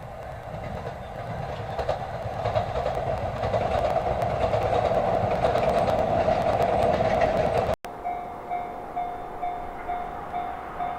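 A train running past, its noise building up with scattered clicks, cut off suddenly about three quarters of the way through. Then comes a repeating electronic tone, pulsing about twice a second.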